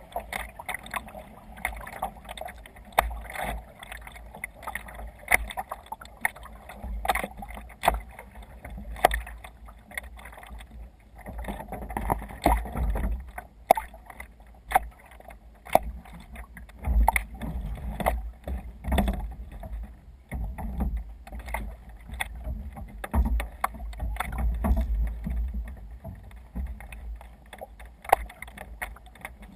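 Sea kayak under way on choppy water: irregular splashing and sloshing against the hull, with frequent short knocks and clicks, and surges that swell and fade.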